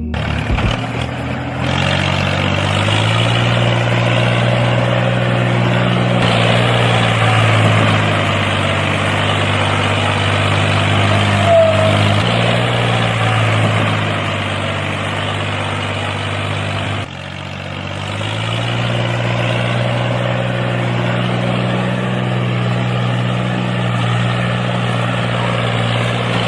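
Engine running steadily, its sound sinking about twelve seconds in, then cutting down abruptly a few seconds later before building back up.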